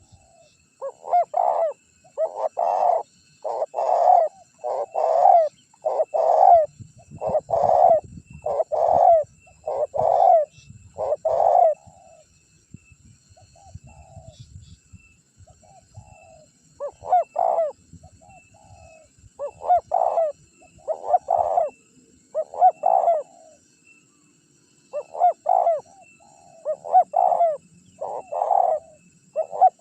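Spotted dove (tekukur) cooing: a run of repeated coo phrases, about one a second, then a lull of a few seconds, after which the cooing starts again.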